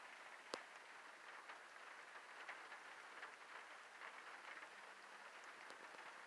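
Faint, steady patter of rain falling on a surface, made of many small drop ticks, with one sharper, louder tap about half a second in.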